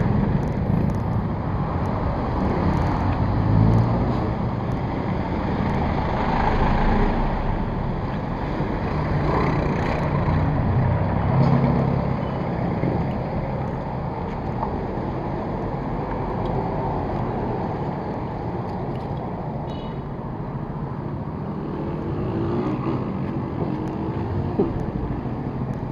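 Motor vehicle noise on a road: a steady engine rumble and tyre noise that swells and eases slowly.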